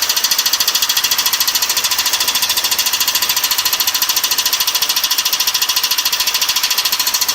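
BMW E46 engine running steadily with a loud, rapid metallic knocking, about fifteen knocks a second and even in pace: the knock in the engine that is being chased down.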